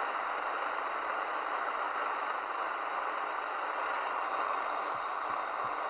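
Steady hiss of static from a Midland Alan 8001 CB radio's receiver on the 27 MHz freeband: an empty channel between transmissions, with a few faint clicks near the end.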